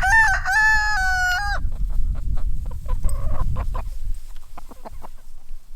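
A rooster crowing: one long, stepped call that ends about a second and a half in. It is followed by scattered short clucks and clicks from the chickens.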